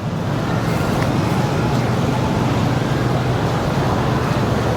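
A steady low motor hum under an even rushing noise.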